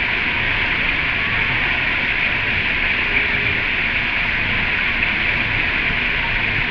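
Steady, even hiss of rushing water, strongest high in pitch, with no single event standing out.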